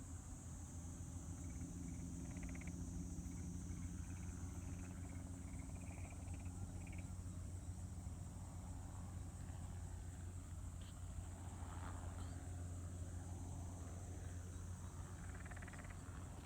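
Crop-spraying helicopter running steadily, a low continuous throb with a steady high-pitched tone above it.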